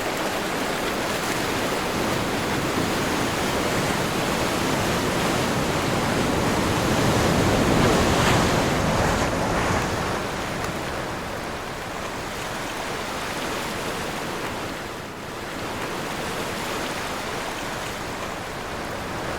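Ocean surf on a windy day: a continuous wash of breaking waves mixed with wind. It swells to its loudest about eight seconds in, eases off, and builds again near the end.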